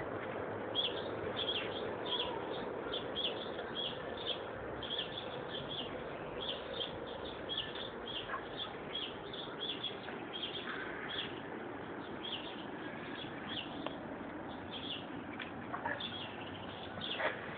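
A small bird chirping over and over, short high chirps about twice a second, over a steady background noise.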